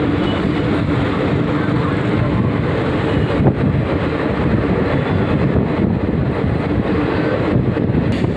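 Steady rumble of a train running across the Godavari road-cum-rail bridge, with one brief knock about three and a half seconds in.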